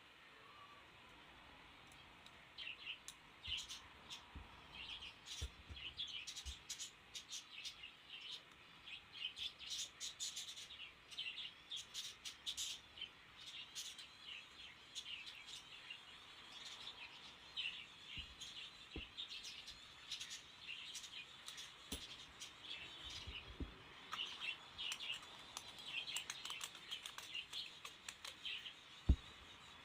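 Small birds chirping over and over in quick, short calls, with a few soft knocks and one sharper tap near the end.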